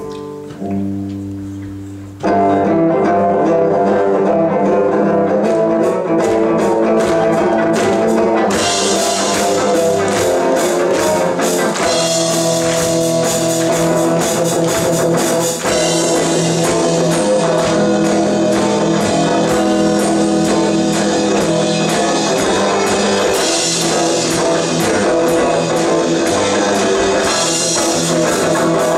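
Band music with guitar and drum kit: a soft held chord, then the full band comes in loudly with a steady beat about two seconds in.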